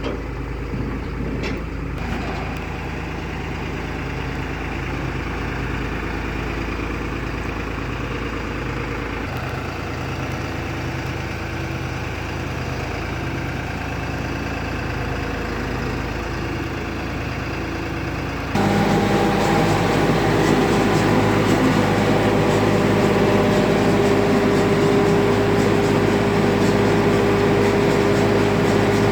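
Tractor engine running steadily while driving a maize harvester. About two-thirds of the way through, the sound abruptly gets louder, with a stronger steady hum from the machinery.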